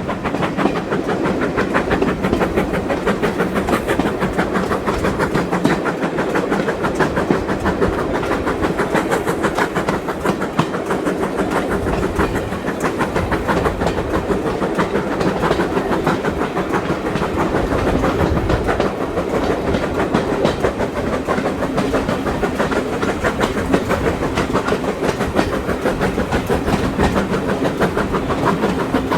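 Steam-hauled train running at speed behind 2-6-0 locomotive No. 9351: a steady, rapid beat with rail clatter.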